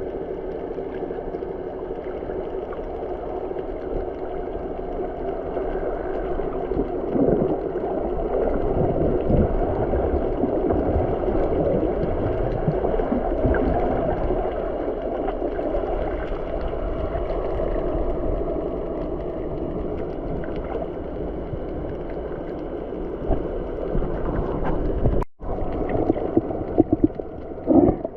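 A boat under way, with a steady rush of water and a low rumble. The sound cuts out for an instant near the end, followed by a few sharp knocks.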